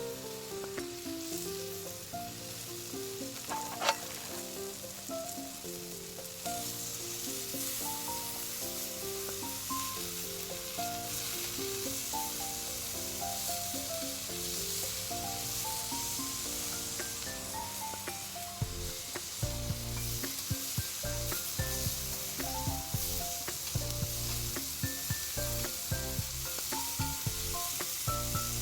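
Meat sizzling as it grills over a campfire, with a single sharp tap about four seconds in. Background music plays throughout: a melody, joined by a steady beat about two-thirds of the way through.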